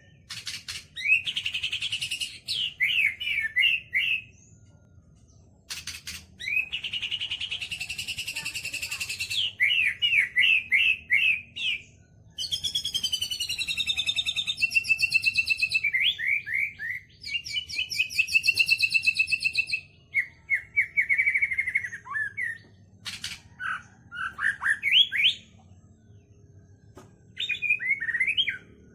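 White-rumped shama (murai batu) singing a long, varied song of whistled phrases, rapid chip series and fast trills, with short pauses between phrases; its song is filled in with mimicked kapas tembak and lovebird phrases.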